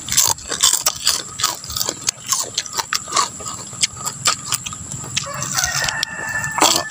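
Crisp, irregular crunches of crunchy beef chicharon (fried beef skin) being bitten and chewed. A rooster crows near the end.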